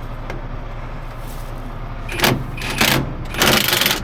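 Truck engine idling steadily. In the second half come three short, loud, harsh noises, the last and longest lasting about half a second.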